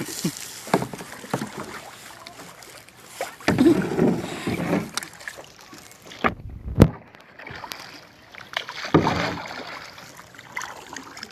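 Water splashing and sloshing around a small paddled boat on the sea, in a few irregular swells a few seconds apart.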